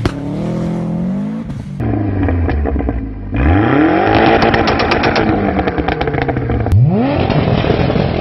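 Car engines revving hard, their pitch sweeping up and down, with rapid exhaust pops and crackles (backfire) in the middle stretch; the sound cuts abruptly between different cars several times.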